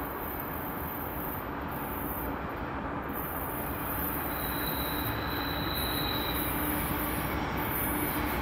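Train rolling on the rails, its rumble growing steadily louder as it approaches, with a faint high wheel squeal for a couple of seconds midway.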